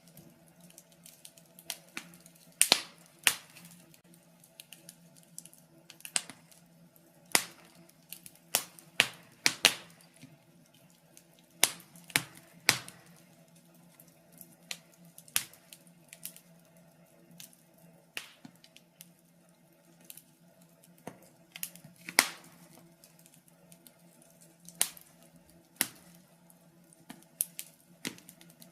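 Wood fire crackling: irregular sharp snaps and pops, a few of them loud, at uneven intervals. A faint steady low hum runs underneath.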